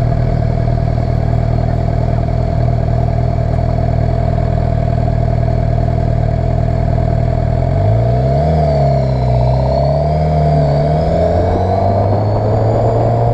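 Suzuki GSX-R 750's inline-four engine running steadily at low speed, then pulling away about seven and a half seconds in, its pitch rising, dipping and rising again before levelling off. Heard through a helmet-mounted camera.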